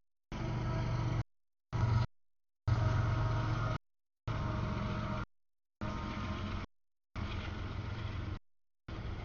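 Double-stack intermodal freight train rolling past, a steady low rumble of wheels and cars. The sound drops out to silence for about half a second roughly every second.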